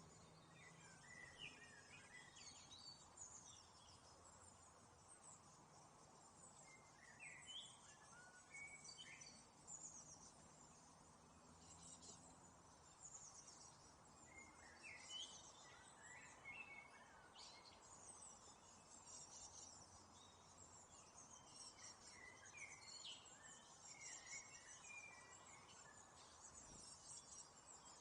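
Faint small-bird chirps and song phrases, short gliding notes that come in clusters every few seconds.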